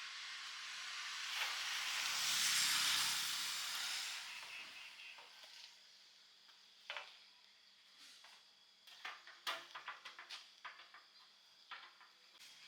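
A hiss that swells for a couple of seconds and fades away over the next two, like sizzling or steam at the charcoal grill. Scattered light clicks and knocks follow.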